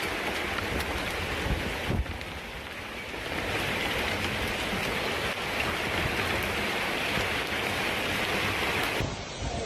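Heavy rain pouring down with storm wind, a steady rushing noise that changes character abruptly about two seconds in and again near the end.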